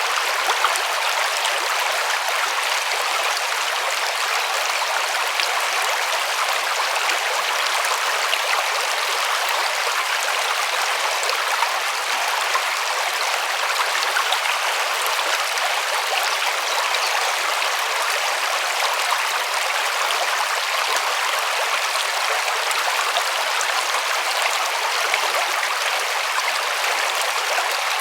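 River water flowing and rushing steadily over stones, a continuous even splashing hiss with no breaks.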